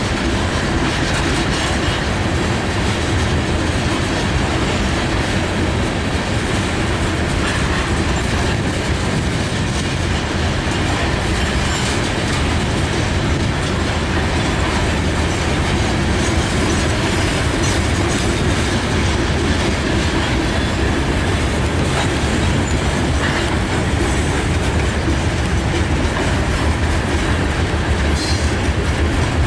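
Freight train cars rolling past: steel wheels on the rails giving a steady, loud rumble, first under covered grain hopper cars and, near the end, under open ballast hopper cars.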